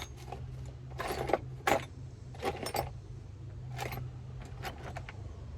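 Small metal chain-filing tools clinking and rattling as they are handled and sorted, in a run of short, sharp clatters.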